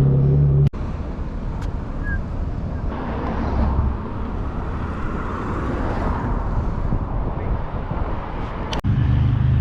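Outdoor road noise: a steady rush of traffic that swells in the middle as a vehicle goes by. It is cut in sharply about a second in and cut off near the end.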